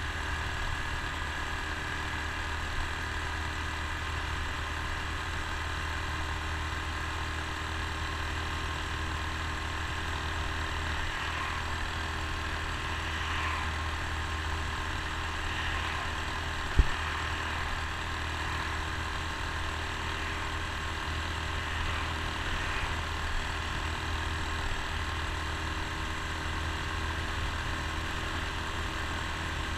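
Honda Super Cub C125's single-cylinder four-stroke engine running steadily as the bike cruises at an even speed, with one sharp knock a little past the middle.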